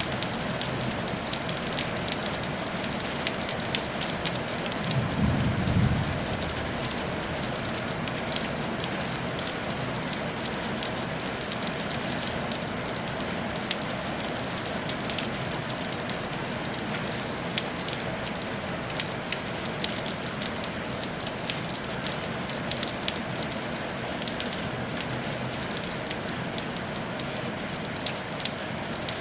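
Steady rain falling on a tile roof: a dense, even hiss with many small sharp drop ticks. A brief low rumble rises about five seconds in.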